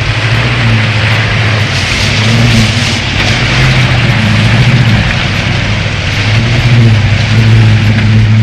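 Heavy truck engine running steadily under load, swelling and easing slightly every second or so, over a continuous hiss.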